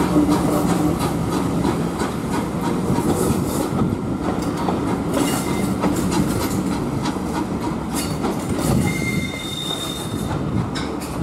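Passenger coaches of a steam-hauled train rolling past: a steady rumble with wheels clicking over the rail joints, and a brief thin wheel squeal near the end.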